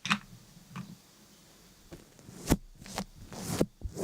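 Close-up handling sounds: short rustles and light taps, with a sharp click about two and a half seconds in and longer rustling near the end.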